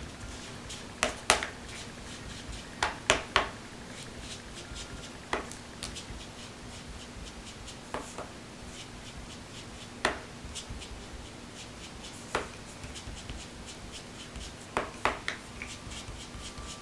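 Foam ink dauber dabbed and rubbed on card stock to ink it: sharp light taps, a few in quick clusters and then single ones every couple of seconds, with soft rubbing between, over a faint steady hum.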